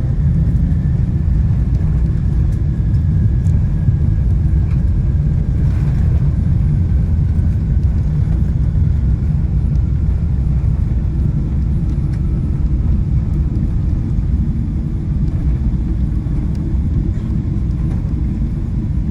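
Steady low rumble of a Boeing 777-200 heard from inside the cabin, with a faint whine that slowly falls in pitch.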